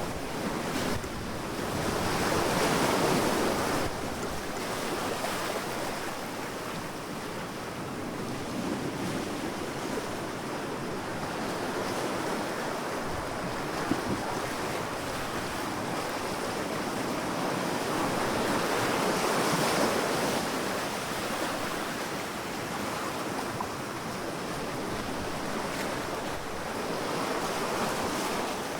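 Sea waves washing onto a sandy beach: a continuous surf wash that swells and ebbs, with louder waves breaking a few seconds in, about two-thirds of the way through and again near the end.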